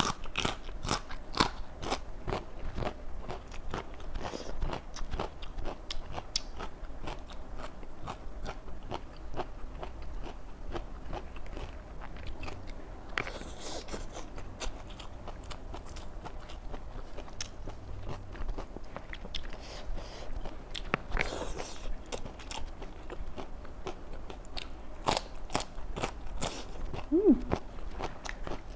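Biting and chewing crunchy raw vegetables close to the microphone: many crisp crunches and crackles, with a brief falling hum near the end.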